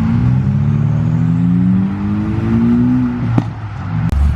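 Ford Focus ST accelerating hard, its engine revving up with the pitch climbing steadily for about three seconds before easing off. A sharp crack comes about three and a half seconds in, and a low thump near the end.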